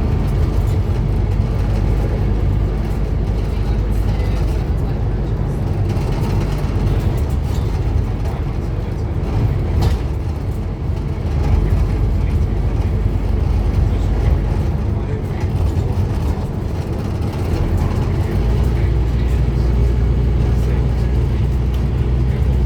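Scania N230UD Omnicity double-decker bus, its five-cylinder diesel engine running under way. About eighteen seconds in, the engine note changes and settles into a steadier low hum.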